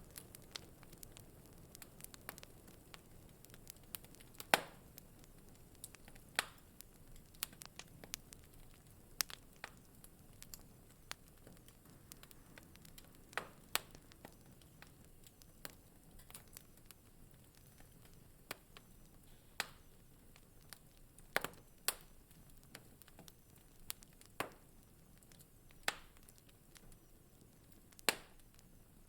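Wood fire crackling in a fireplace: irregular sharp pops and snaps over a soft steady hiss, a few louder pops standing out.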